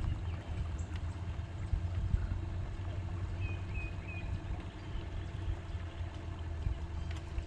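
Boat motor running with a steady low hum, and a bird giving three short high chirps about halfway through.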